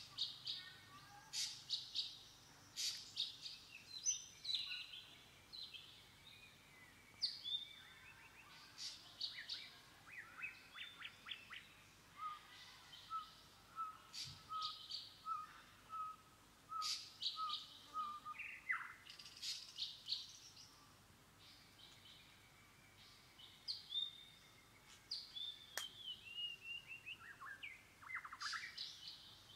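Wild songbirds chirping and singing in short, scattered phrases, with a run of about a dozen evenly spaced lower notes around the middle.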